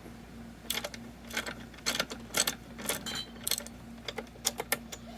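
Irregular small metal clicks and clinks, about a dozen over a few seconds: motorcycle parts and tools being handled while the engine mounting is worked on.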